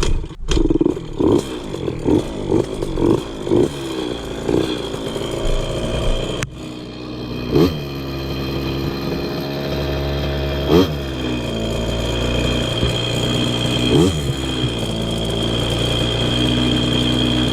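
KTM 50 Mini Adventure two-stroke engine revved in a run of quick throttle blips about twice a second, then idling steadily with three short blips a few seconds apart. The idle speed is being set with the carburettor's air screw at 2.5 turns out.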